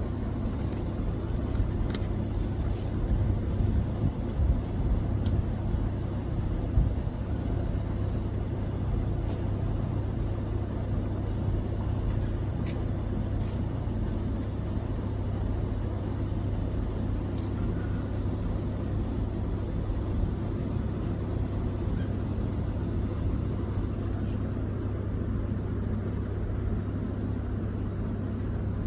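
Steady low rumble with a constant hum, like a vehicle engine idling, somewhat louder and more uneven in the first few seconds. A few faint short ticks sound above it.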